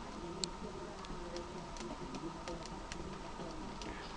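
Birch firewood crackling as it burns, with scattered sharp pops and ticks at irregular intervals.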